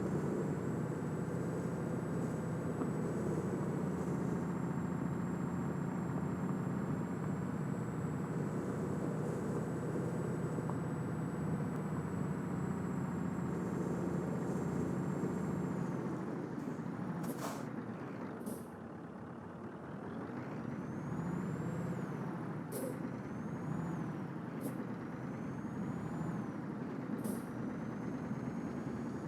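Scania truck's diesel engine running steadily with a high whine. About halfway through the engine note drops and several short air-brake hisses follow, while the whine rises in pitch again several times.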